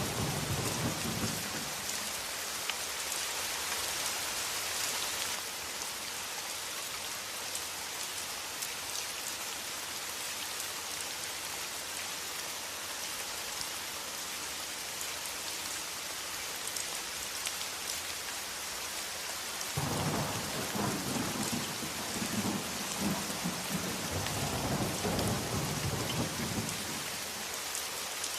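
Steady heavy rain, with low rolling thunder rumbling at the start and again for several seconds near the end.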